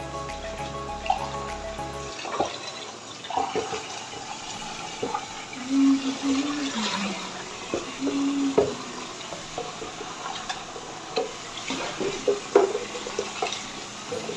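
Water pouring and splashing, with scattered short knocks of handled objects. Background music stops about two seconds in.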